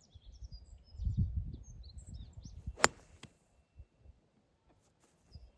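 A golf club strikes a ball once, a sharp crack nearly three seconds in, with birds chirping in the background and a low rumble about a second in.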